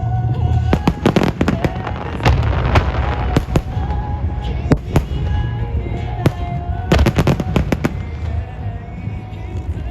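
Starmine of 8-go (8-inch) aerial firework shells bursting in rapid succession, sharp bangs coming in dense clusters about a second in, around three seconds in and near seven seconds. Music plays under the bursts.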